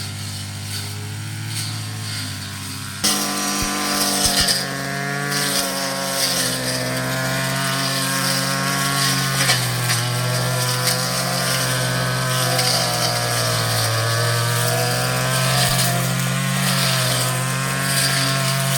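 Small engine running steadily, its pitch wavering up and down as the load changes. About three seconds in, the sound changes abruptly.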